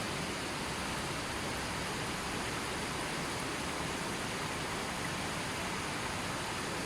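River water flowing steadily, an even rushing hiss with no birds or other sounds over it.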